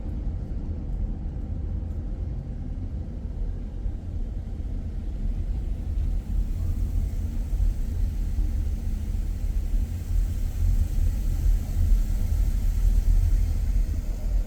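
A car driving: a steady low rumble of road noise, growing louder about six seconds in.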